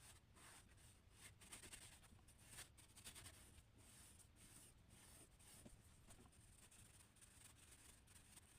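Faint scratching of a drawing tool stroking across paper, in a run of short strokes that come thickest in the first half.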